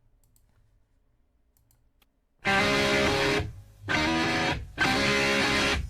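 Near silence, then about two and a half seconds in a hard rock recording starts: a distorted electric guitar riff played in stop-start blocks of about a second, with short breaks between them.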